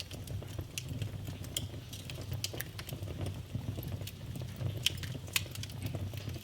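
Wood fire burning in a fireplace, a steady low rumble of flame with irregular crackles and pops, two louder pops about five seconds in.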